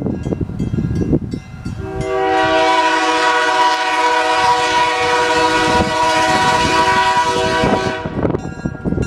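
Nathan K3L five-chime air horn on an EMD GP7 diesel locomotive, sounding one long blast of about six seconds that starts about two seconds in, really loud. Before and after the blast the train makes a low rumble with clicks.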